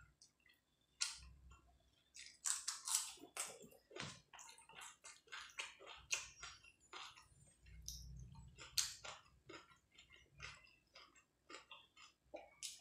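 Close-miked chewing of rice and chicken curry eaten by hand: a dense run of short wet mouth smacks and clicks, a few of them louder.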